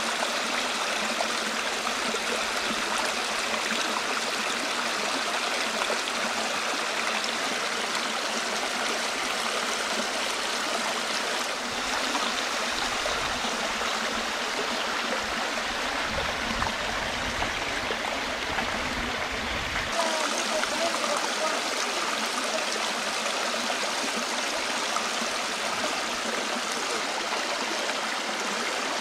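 Steady rush of the Dzhuryn River's falling and flowing water, an even, unbroken noise. A low rumble joins it for several seconds in the middle.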